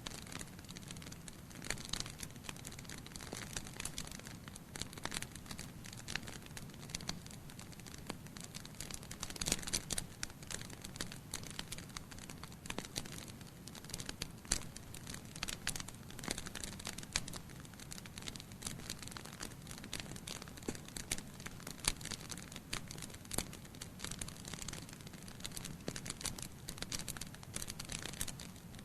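Wood fire burning in a fireplace: logs crackling with frequent sharp pops and snaps over a steady low hiss.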